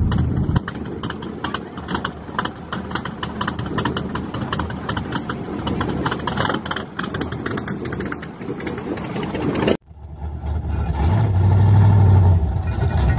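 Car engines running with a lot of rapid, irregular crackling. After a cut about ten seconds in, one engine idles with a low, steady note and is revved up briefly about a second later.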